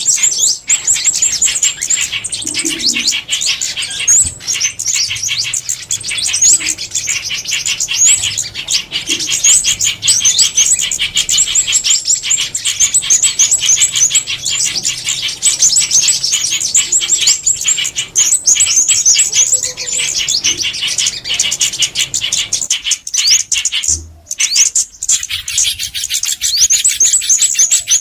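Recorded calls of small songbirds, including sunbirds, played back as a trapping lure: a dense run of rapid, high chirps and twittering trills, with a brief break about two-thirds of the way through.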